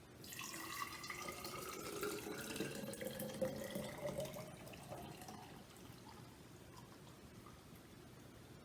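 Sugar-water hummingbird nectar poured in a steady stream into a wide-mouth hummingbird feeder reservoir, its ringing pitch rising as the reservoir fills. The stream tapers off about five seconds in.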